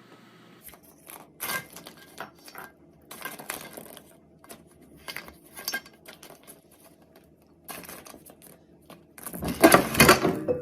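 Irregular clicks and short rattles of small hard objects, with a louder, denser burst of clattering about nine seconds in.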